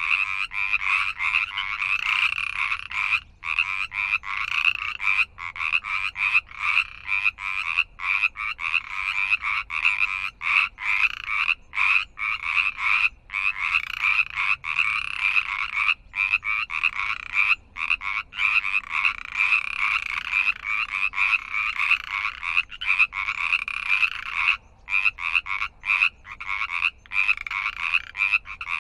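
Frogs croaking in a dense, continuous chorus of fairly high-pitched calls, broken only by brief momentary gaps.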